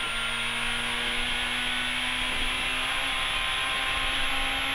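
Honda Civic rally car's engine held at steady high revs at full speed, heard from inside the cabin over loud road and tyre noise.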